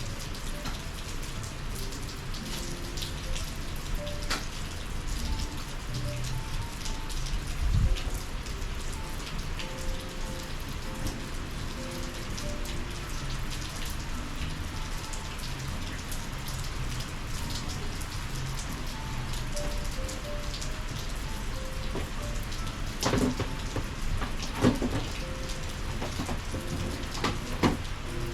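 Steady summer rain falling and pattering on surfaces, with several sharper, louder drop strikes near the end. A low thump about eight seconds in is the loudest moment.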